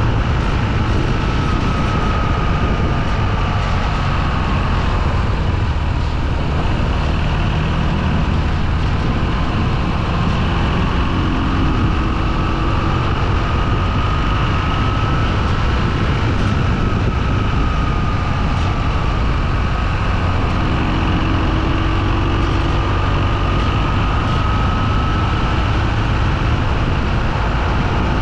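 Motorcycle running steadily while being ridden: a constant loud low rumble of engine and road noise, with a faint whine that drifts slowly up and down in pitch.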